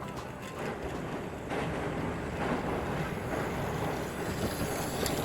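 A train running: a steady rumbling hiss with faint beats about once a second.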